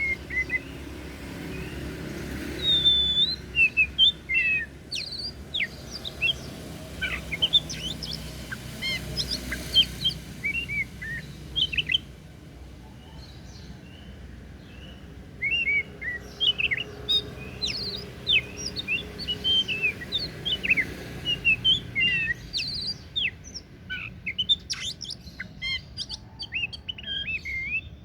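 Oriental magpie-robin (kacer) singing: a varied run of clear whistled notes with quick up- and down-sweeps, pausing for a few seconds near the middle before it starts again.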